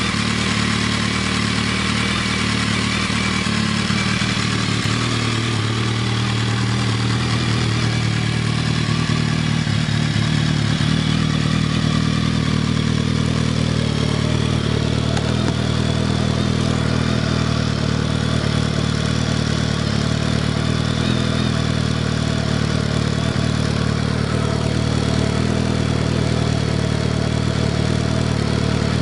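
2007 BMW K1200R's inline-four engine idling steadily through a full Akrapovic exhaust system.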